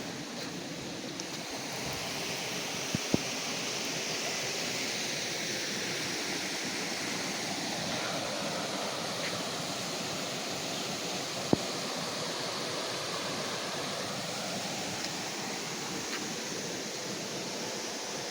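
Flowing stream water rushing steadily, with a sharp click or knock about three seconds in and another about eleven and a half seconds in.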